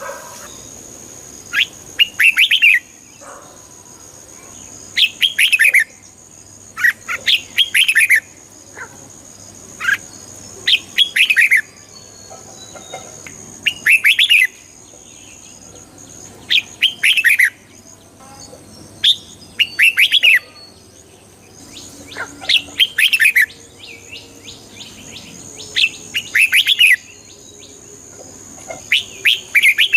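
Red-whiskered bulbul singing: short, bright phrases of a few quick notes, repeated every couple of seconds. A faint steady high tone runs behind it.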